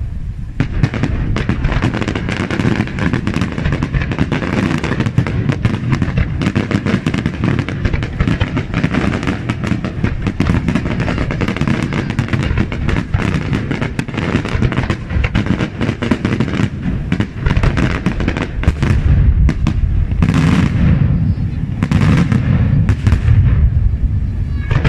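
Daytime fireworks: a dense, continuous barrage of aerial shell bursts and crackling bangs, one report after another with no pause, a little heavier in the last few seconds.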